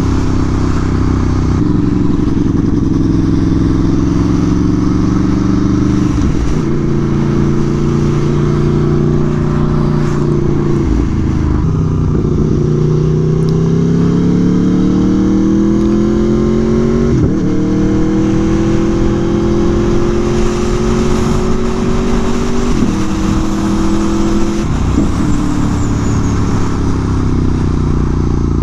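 Aprilia Tuono V4 1100 motorcycle's V4 engine running under load, its pitch climbing and then stepping down at gear changes several times. The longest pull rises steadily for about five seconds mid-way.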